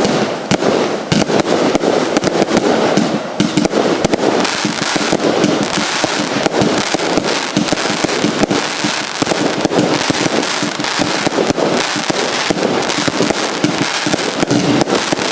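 Lesli 'Neon Outburst' compound firework cake firing without a break: a dense, rapid run of launches and bursts.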